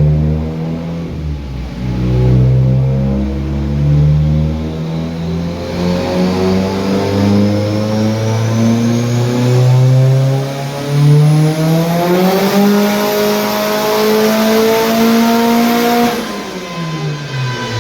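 Car engine at full throttle on a chassis dynamometer in a power run: the revs climb slowly, then faster, and hold high for about four seconds before the throttle is cut and the revs fall near the end. A thin high whine rises along with the engine.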